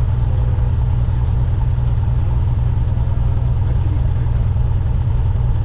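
Cessna 172's piston engine and propeller running with a steady, even drone.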